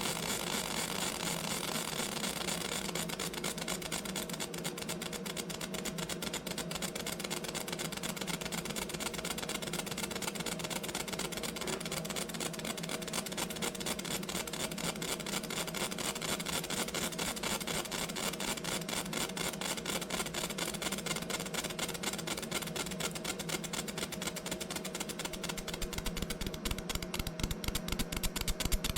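A small machine running steadily with a fast, even pulsing rhythm, louder and stronger in the last few seconds.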